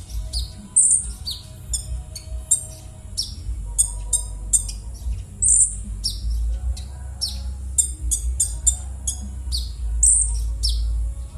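Konin bird giving its harsh 'kasar' calls: a busy run of sharp, high, downward-sweeping notes and quick stuttering rattles, several a second, over a steady low rumble. These are the rough calls used as a lure to get a silent konin calling.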